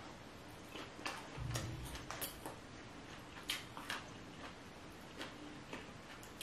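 Close-miked eating sounds: faint, irregular wet clicks of chewing with the mouth closed, with a soft low thump about a second and a half in.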